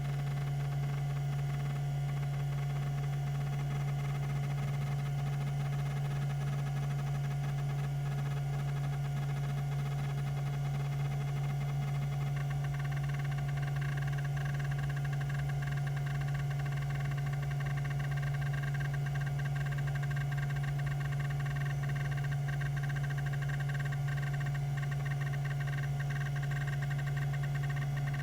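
Tandon TM362 20 MB MFM hard drive running, its 3600 RPM spindle giving a steady low hum with a fainter higher tone above it. A higher whir joins about twelve seconds in.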